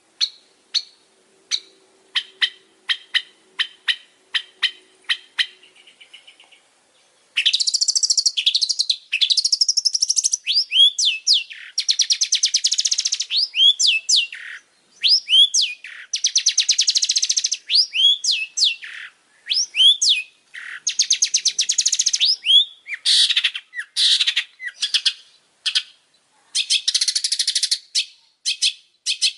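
Long-tailed shrike (pentet) singing. It begins with single sharp chips, about two a second. After a short pause, from about seven seconds in, it breaks into a fast, harsh chattering song of rapid notes broken by short down-curving calls, with brief gaps.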